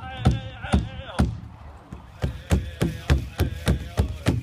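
Powwow drum beating steadily with high, wavering singers' voices over it. The singing stops about a second in, and the drum goes on alone at a quicker beat, about three or four strokes a second.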